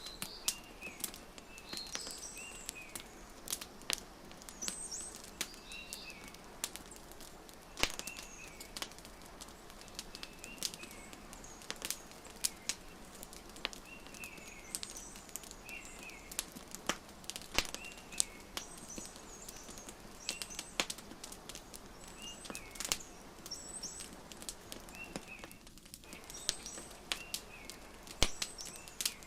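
Wood fire crackling, with sharp irregular pops every second or so. Small birds chirp in short repeated calls throughout.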